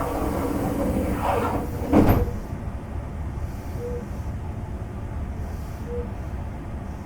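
Electric train's sliding passenger doors closing: a rising sliding rush for about two seconds that ends in a loud thud as they shut. After that comes a steady low hum in the car with its air conditioning running.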